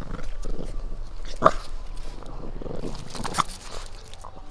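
Boston terriers making short dog sounds, with two sharp ones: one about a second and a half in and another near three and a half seconds.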